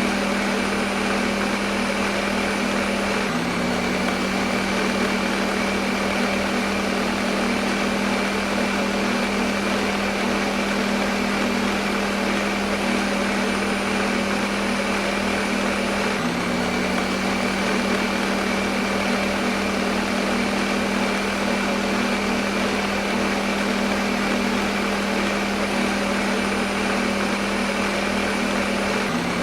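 Electric kitchen blender motor running steadily: a constant hum under a dense, even whir. The hum gives a brief hitch about every thirteen seconds.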